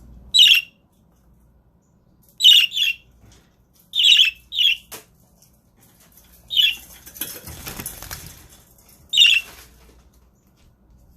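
Pet budgerigars giving short, loud chirping calls, about seven in all, spaced a second or two apart. A rustling flutter of wings lasts a second or two just after the middle.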